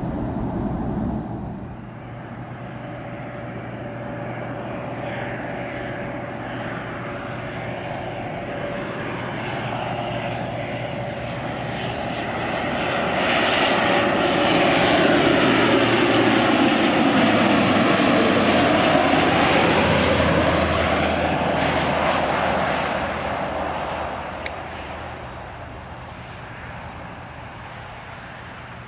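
Airliner's engines passing by: the sound grows over the first half, is loudest from about 14 to 23 seconds, then fades. A high whine falls in pitch as the aircraft passes.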